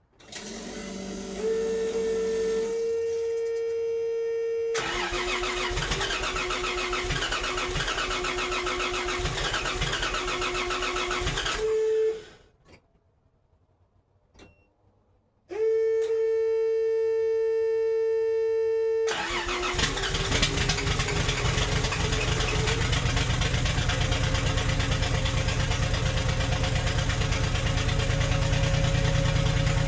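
Toyota 2JZ inline-six being cold-started in below-freezing weather: the starter cranks for about twelve seconds and stops, cranks again a few seconds later, and the engine catches about nineteen seconds in and keeps running, its pitch slowly rising. The hard start is what the owner puts down to a probable dead ignition coil in the batch-fire system, which also leaves him chasing a misfire.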